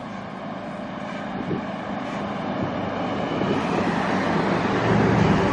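City bus pulling in close by, its engine and tyre noise growing steadily louder, with a low engine hum strongest near the end.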